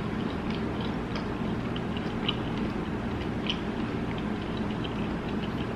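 A person chewing food, with many small, quick mouth clicks over a steady low hum.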